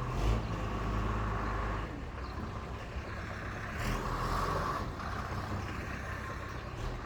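Used bus engine running steadily with a low rumble, with a brief louder burst about a third of a second in and another about four seconds in.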